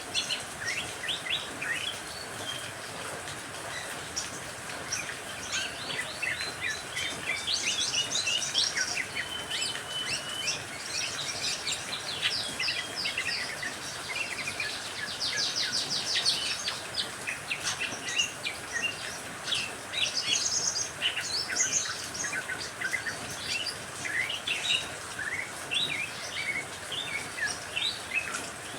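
A mix of songbirds, among them canaries, lovebirds and greater green leafbirds, chirping and trilling rapidly without pause, over a steady rain hiss. A dense, fast trill stands out near the middle.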